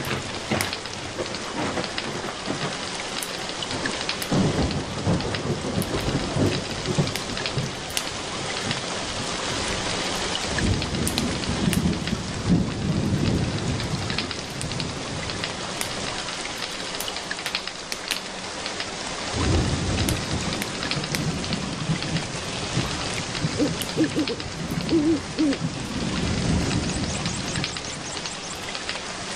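Steady rain with the snapping crackle of a wood fire in a fireplace: many sharp pops over an even hiss. Low rumbling swells rise and fade several times.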